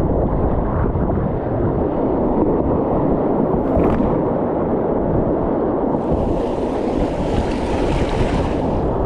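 Wind buffeting a GoPro microphone over flowing creek water, a steady rushing noise with a low rumble. About six seconds in, a brighter, hissing rush of water comes up for about three seconds.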